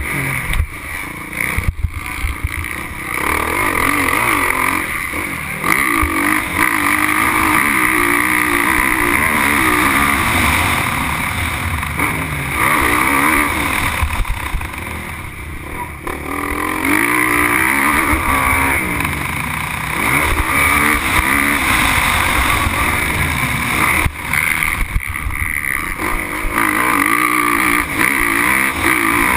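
Motocross bike engine racing over a dirt track, heard from the rider's onboard camera: revs rise and fall again and again with throttle and gear changes, easing off briefly a few times, around the middle and again near the end.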